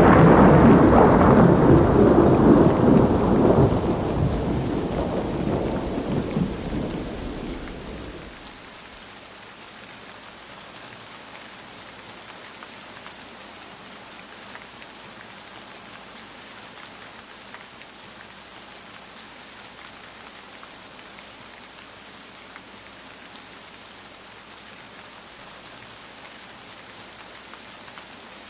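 A thunderclap's rumble fading over about eight seconds over steady rain, then cutting off abruptly, leaving rain falling alone.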